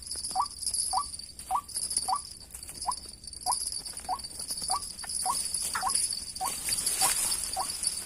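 White-breasted waterhen calls: a steady series of short rising notes, about two a second, such as the lure call played to draw the birds to the snares. From the start a loud, high-pitched insect buzz carries on over the calls and is the loudest sound.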